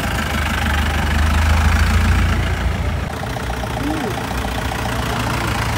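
Engine of a modified car idling with a deep, low hum, a little louder in the first half, with people talking around it.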